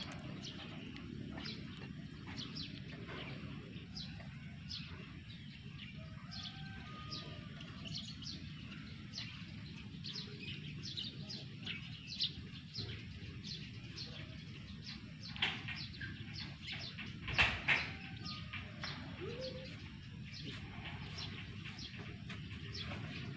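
Small birds chirping, short sharp notes repeating irregularly, over a steady low background rumble, with a few louder clicks a little past the middle.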